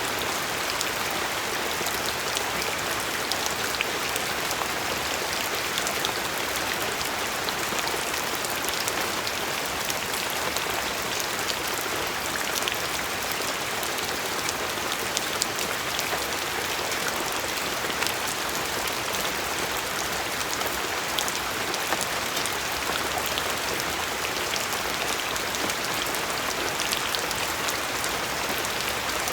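Steady rain falling, an even hiss with many small individual drops pattering on a surface.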